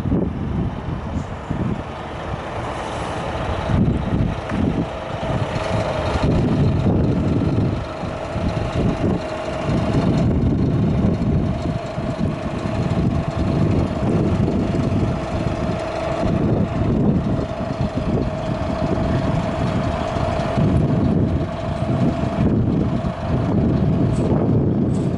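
Scania R 480 truck's diesel engine running, with a steady high-pitched whine that sets in about six seconds in and stops shortly before the end.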